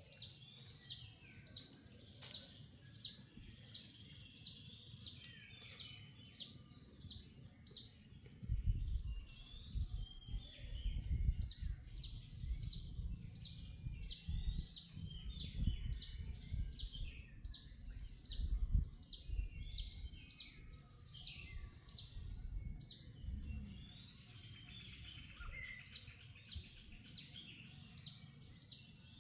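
A bird repeating a short, high chirp that falls in pitch, about two a second, over a low rumbling background noise through the middle part.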